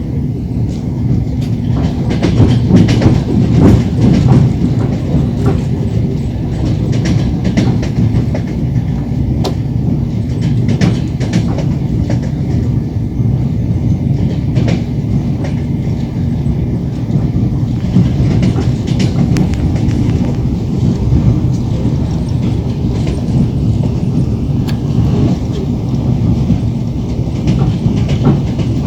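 Train wheels clacking over rail joints, with the carriage's steady low rumble beneath, heard from inside the moving train. The clacks are most frequent in the first part, then thin out.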